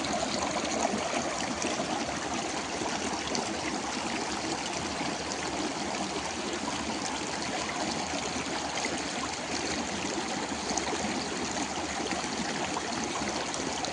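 Running water of a small stream, a steady trickling and burbling that holds at one level throughout.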